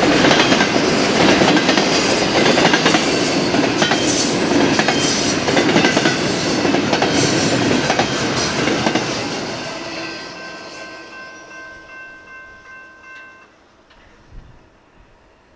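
BNSF freight train rolling past, its wheels clicking over the rail joints, loud and steady until the cars go by and the sound dies away over the last several seconds. As it fades, a few steady high tones hang on for a few seconds and then stop.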